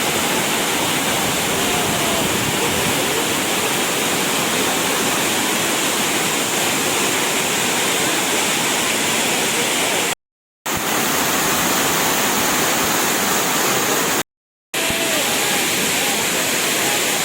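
Waterfall: a steady, loud rush of falling water with no rhythm. It cuts out twice for about half a second.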